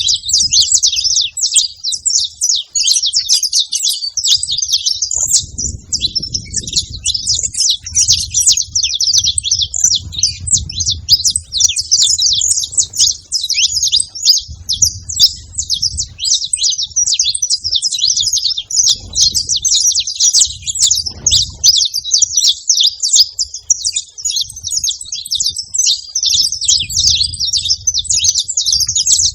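Saffron finches singing and chirping: a continuous, dense stream of rapid high-pitched chirps.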